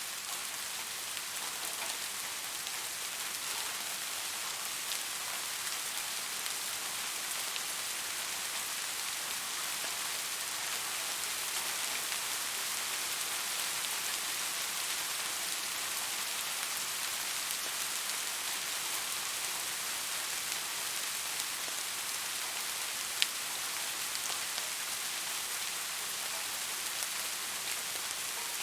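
Steady rain falling, an even hiss of many drops with faint individual drop ticks and one sharper drop click near the end.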